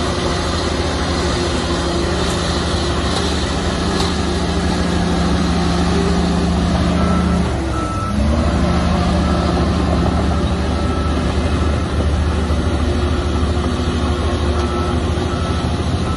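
Heavy diesel construction machinery running steadily under load. About halfway through, the engine note dips and picks up again. A reversing alarm beeps on and off in the second half.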